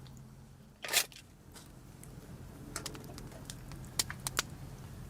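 Wood campfire crackling, with scattered sharp pops and a louder, brief noisy crackle about a second in, over a steady low hum.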